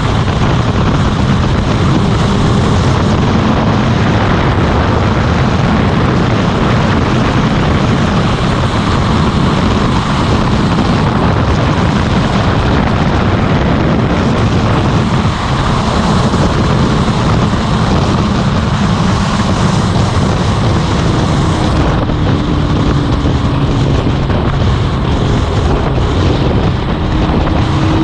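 Motorcycle running at a steady road speed, its engine drone buried under heavy wind rush on the microphone.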